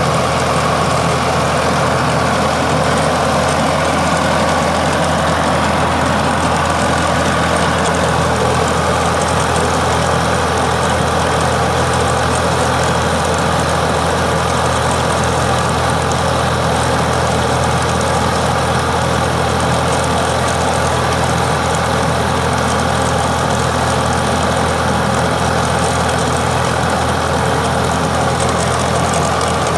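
Tractor engine running at a steady speed, driving a chain trencher, with a dense mechanical din over the engine note.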